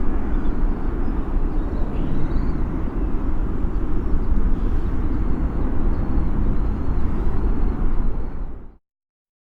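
Boeing 737-800's CFM56 jet engines heard as a steady low rumble as the airliner climbs away after takeoff; the sound cuts off near the end.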